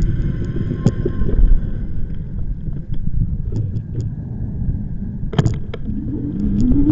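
Wind buffeting the microphone and tyre rumble from a moving e-bike, with a quick rattle of clicks about five seconds in and a whine rising in pitch near the end.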